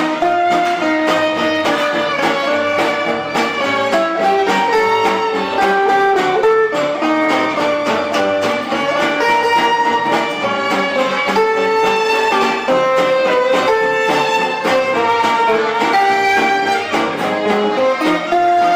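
Live gypsy-style band playing an instrumental passage, a violin carrying the melody over strummed guitar with a steady rhythm.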